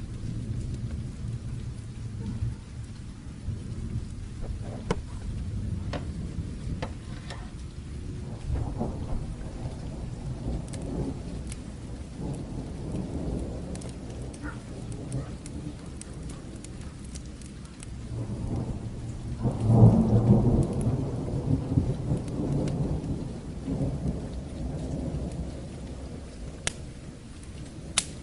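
Steady rain with rolling thunder: a low rumble throughout that swells into a loud thunder roll about two-thirds of the way through, then fades back. Scattered sharp crackles sound over it.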